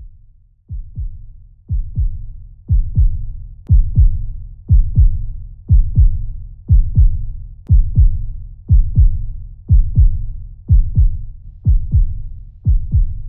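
A slow heartbeat: paired low thumps, a lub-dub about once a second, fading in over the first few seconds and then holding steady.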